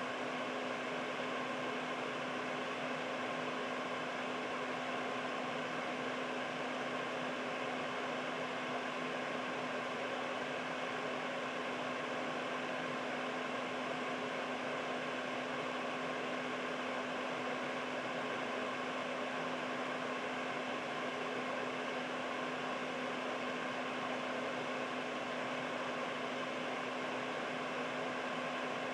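Air purifier running steadily: an even rush of air from its fan, with a constant low hum under it.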